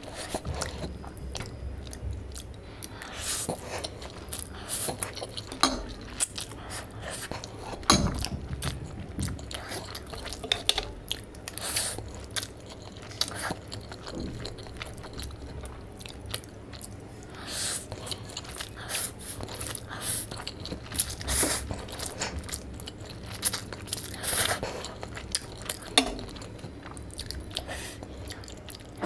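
Close-miked chewing of spicy Korean noodles, with a fork clicking and scraping on the plate. Irregular sharp clicks run through it, the loudest about a third of the way in and again near the end.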